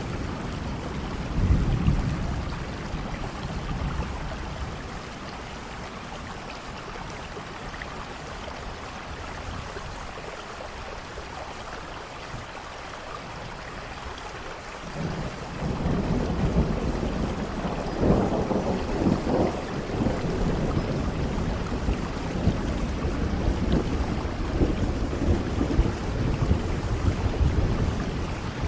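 Steady rain with rolling thunder: a rumble swells about a second in, dies down, then a long peal of thunder builds about halfway through and rumbles on to the end.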